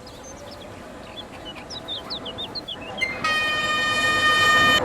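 Train horn sounding one steady blast of about a second and a half, starting about three seconds in. Before it, small birds chirp over a low rumble.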